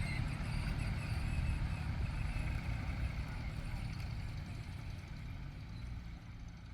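Tractor engine running steadily at low revs, fading out near the end.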